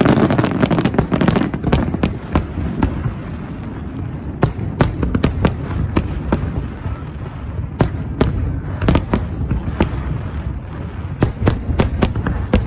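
Fireworks display: many sharp, irregular bangs and crackles over a continuous low rumble, with a dense burst of crackling in the first second or so.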